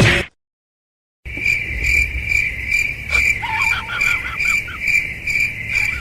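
Cricket chirping: a steady high-pitched chirp repeating about two and a half times a second, starting about a second in after a short gap of dead silence, with a few faint squeaky calls over it around the middle.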